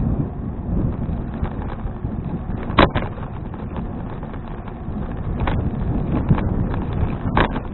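Wind buffeting an action camera's microphone on a moving bicycle, over a steady low road rumble. A few sharp knocks or rattles, the loudest a quick pair about three seconds in.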